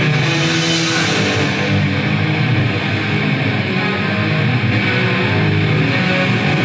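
Loud distorted electric guitar and bass from a live grindcore band, held as a steady wall of sound.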